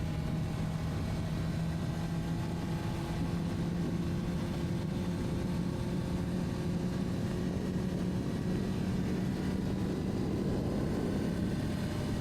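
Honda CBR600RR's inline-four engine running at a steady cruise, its note rising slightly as the bike gently gains speed. A rushing noise swells near the end.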